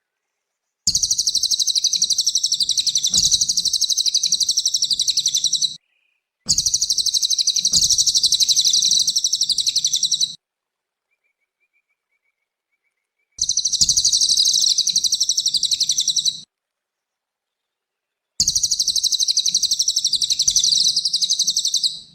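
Cililin songbird singing a fast, high-pitched, chattering trill in four bursts of about three to five seconds each, with complete silences between them.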